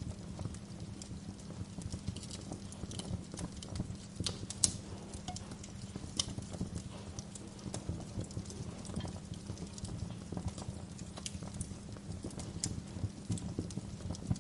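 Wood fire crackling in a fireplace: irregular snaps and pops over a low steady rumble, with a sharper pop about a third of the way in.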